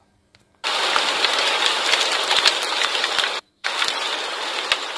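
Recorded heavy rain, a steady hiss with small crackles. It starts about half a second in and breaks off for a moment at about three and a half seconds, at a cut between two clips.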